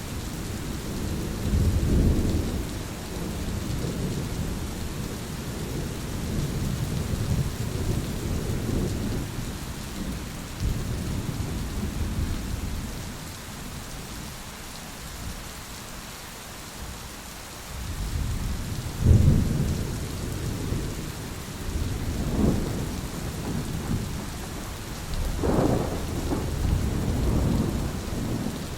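Steady rain with rolling thunder. The rumbles swell and fade, ease off through the middle, then come back with a loud clap about two-thirds of the way through and several more rumbles near the end.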